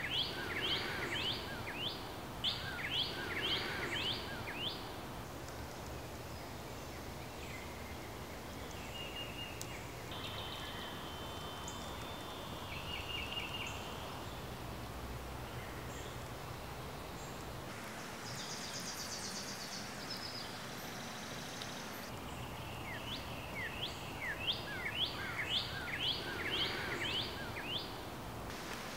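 Birds singing over a steady outdoor hiss. One bird sings a quick run of down-slurred notes at the start and again near the end, and shorter trills from other birds come in between.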